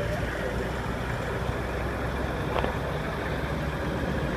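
Steady low rumble of trucks and traffic passing on the road: engine and tyre noise.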